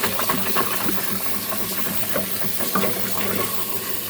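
Water hissing and bubbling in a clogged sink drain, a steady rush with irregular small bubbling pops.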